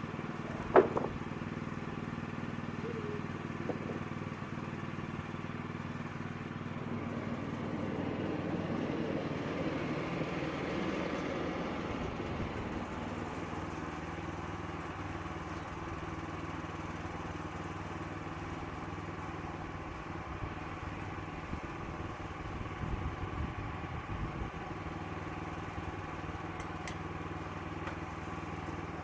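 Sawmill engine running steadily at a constant speed, with one sharp knock about a second in and a few light rattles later on.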